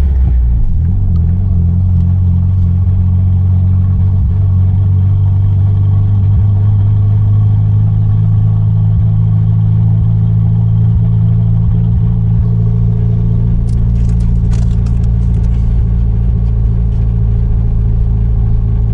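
Turbocharged Mitsubishi G54B 2.6-litre four-cylinder engine in a Starion/Conquest running steadily at low revs, a loud, even hum heard from inside the car. The pitch settles slightly lower just after the start. A few light clicks come about fourteen seconds in.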